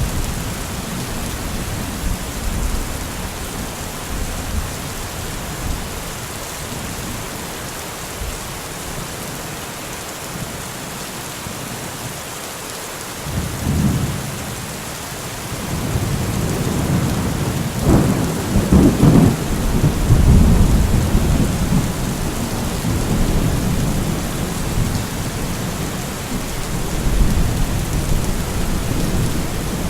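Steady rain falling, with rolling thunder: a low rumble builds about halfway through, breaks into a loud crackling peak a few seconds later, then rolls on and fades back under the rain.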